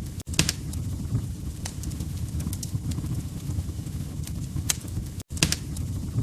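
Wood fire crackling: a steady low rumble of burning logs with sharp, irregular pops and snaps. The sound cuts out for an instant twice, just after the start and about five seconds in.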